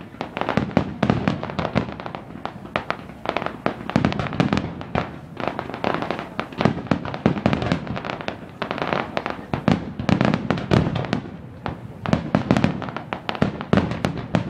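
Fireworks display at full intensity: a dense, continuous barrage of aerial shell bursts and crackles, many bangs a second with no let-up.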